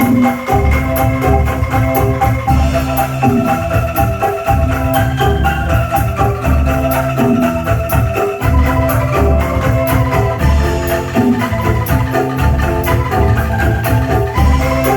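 Angklung ensemble playing loud music through a sound system: pitched bamboo notes over deep bass beats and a steady, fast high ticking rhythm.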